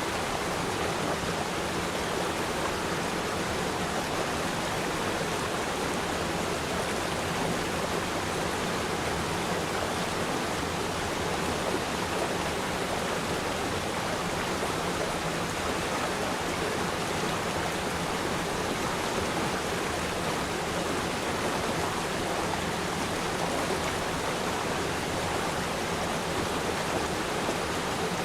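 Steady rushing of a flowing river stream, an even water noise with no changes.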